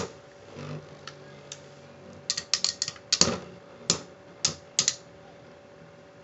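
Spinning Beyblade tops clashing and knocking in a plastic stadium: a run of sharp, irregular clicks, bunched together about two to three seconds in, then a few more spaced out before they stop near five seconds.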